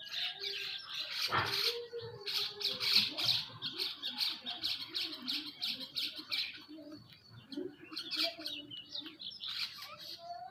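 Birds calling: squawks and a fast run of quick chirps, with a sharp click about a second and a half in.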